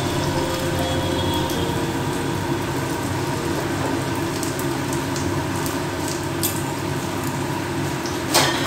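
Chicken kebab patties shallow-frying in oil in a frying pan over a low gas flame: a steady sizzle with scattered small pops, and one brief louder noise near the end.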